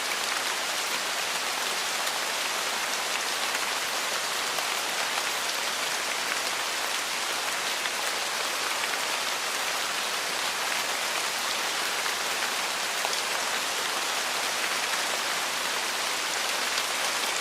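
Steady rainfall: an even hiss of many drops landing on a surface.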